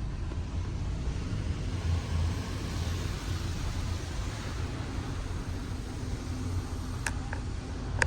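Hodge/AVW automatic car wash tunnel running: a steady hiss over a low rumble, with two sharp clicks near the end.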